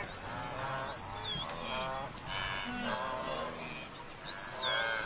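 Wildebeest herd calling, a run of overlapping nasal honking grunts one after another. Two short high whistles cut through about a second in and near the end.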